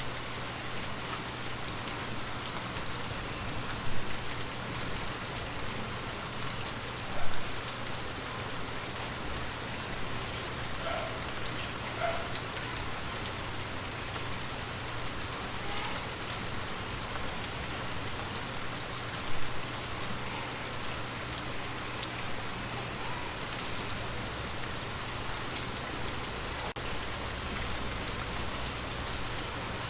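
Steady rain falling on a surface, an even hiss of drops, with three brief louder drops or taps standing out.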